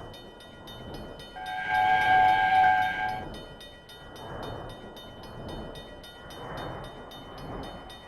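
Train horn sounding once for about two seconds, a steady chord of several notes, over the rumble of a moving train with a fast even ticking.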